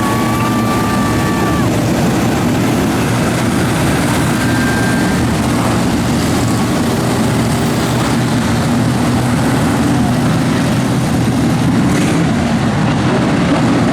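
A field of Pro Truck dirt-track race trucks circling at pace speed, their engines making a loud, steady, overlapping drone.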